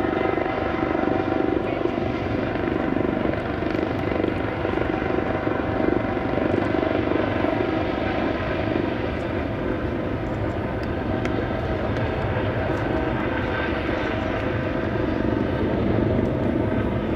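Four jet engines of Air Force One, a Boeing 747-based VC-25A, running steadily: a loud, even rush with several steady whining tones.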